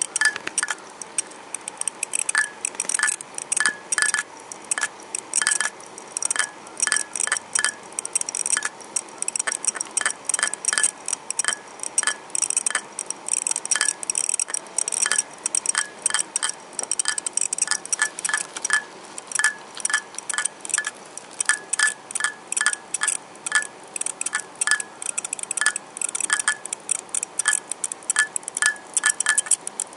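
Hitachi 0S03085 2.5-inch hard disk drive making an abnormal clinking rattle ('karan-karan'): irregular sharp clicks, a few a second, each with a short metallic ring. Despite the noise the drive still reads when it behaves and shows no SMART errors.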